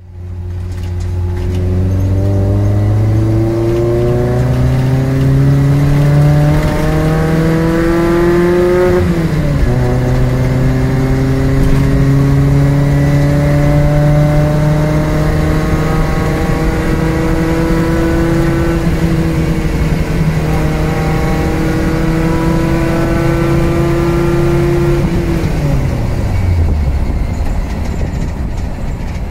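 Suzuki SJ410's four-cylinder engine driving under load. The revs climb steadily for about nine seconds, drop sharply at a gear change, hold level while cruising, then fall away as the throttle is lifted near the end.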